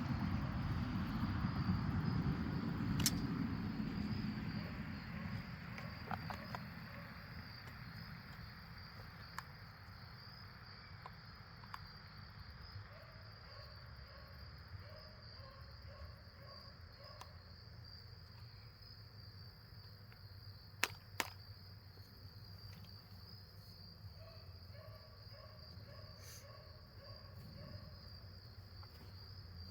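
Insects chirring steadily at a high pitch. A low rumble fades away over the first few seconds, and two sharp clicks come close together about two-thirds of the way through.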